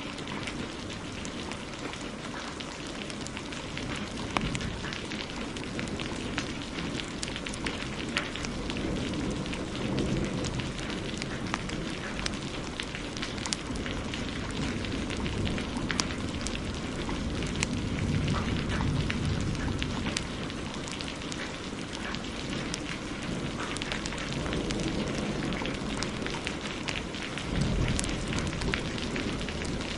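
Heavy rain hissing steadily, with a wood fire crackling and popping in sharp clicks throughout. Low thunder rumbles swell up about three times: about a third of the way in, past the middle, and near the end.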